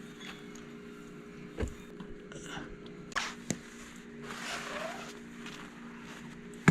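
An engine idling steadily with a low even hum, with a few sharp clicks and knocks of parts being handled.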